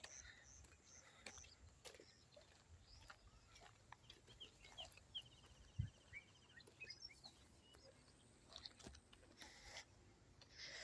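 Near silence: faint outdoor evening ambience with scattered small chirps and a brief trill about five seconds in, and one soft low thump shortly after.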